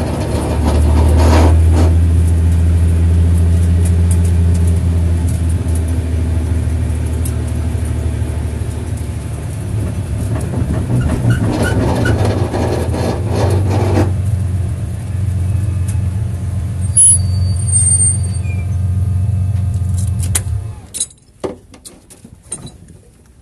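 Nissan 300ZX's V6 engine running at low speed, heard from inside the car, then shut off near the end, leaving a few light clicks.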